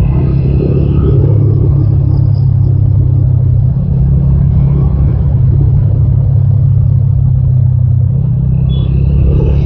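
TVS Apache RTR 200 4V motorcycle's single-cylinder engine running under way during a ride, a loud, steady low drone with no big change in revs.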